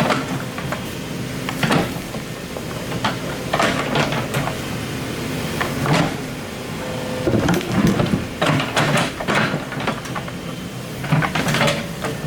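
Excavator engine running steadily, with repeated scrapes and knocks of the bucket working earth and rock.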